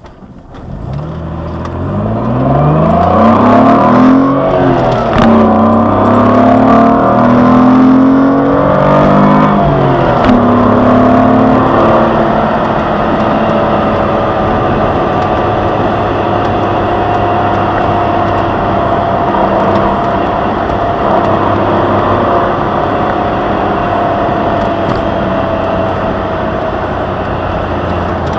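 A 2003 Jaguar X-Type's 2.5-litre V6, heard from inside the cabin, accelerating hard at full throttle from a stop. The revs climb through two gears with upshifts about 4 and 10 seconds in, then the engine settles to a steady cruise.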